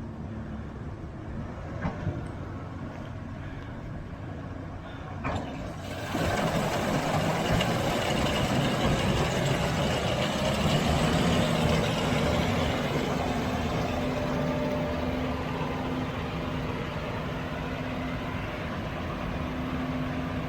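Heavy farm machinery running. About six seconds in the sound steps up louder, and a steady low engine hum runs on after it.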